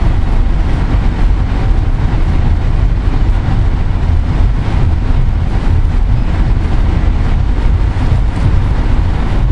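Steady low rumble of a passenger train rolling slowly along the track, heard from inside a Skyline dome car.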